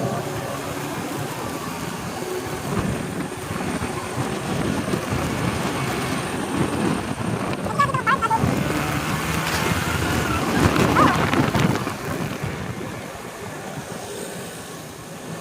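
Motorcycle riding on the road with wind rushing over the microphone and the engine running underneath. A brief high squeak comes about eight seconds in, and the rush swells loudest around eleven seconds before easing off.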